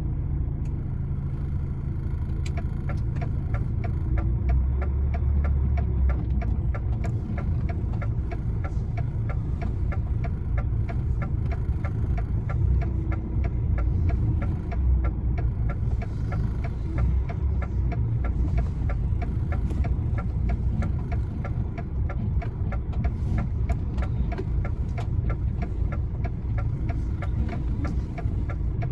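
Diesel engine of a lorry running at low revs while the truck reverses, a steady rumble with a fast, even ticking over it.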